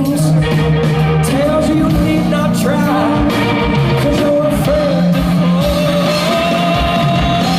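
Rock band playing live: electric guitar, bass and drums, with a lead melody of long held, bending notes over a steady low accompaniment.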